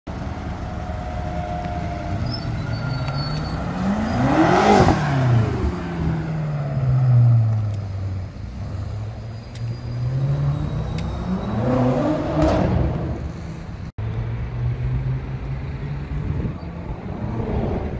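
BMW M5 F10's twin-turbo V8 engine driving past twice, its pitch rising as it approaches and dropping as it passes, about five seconds in and again near twelve seconds, with a steady engine drone between.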